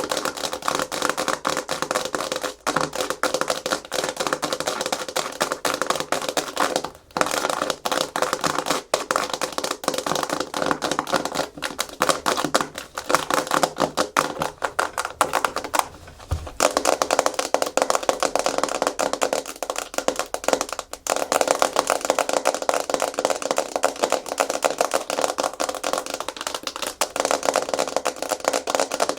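Fast, aggressive natural fingernail tapping and scratching on a hard plastic surface: a dense stream of rapid clicks, broken by brief pauses about seven and sixteen seconds in.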